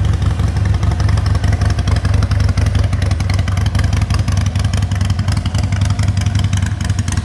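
Harley-Davidson Sportster Iron 883's air-cooled V-twin engine running steadily, a fast even pulse of firing strokes with no revving.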